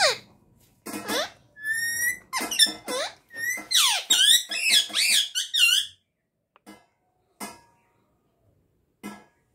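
Pet parrot calling: a run of high, sharply gliding whistles and squawks for about five seconds, then a few short, separate chirps near the end.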